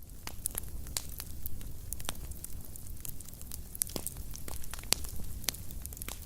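Fire in a fireplace crackling: many irregular sharp pops and snaps over a low, steady rumble.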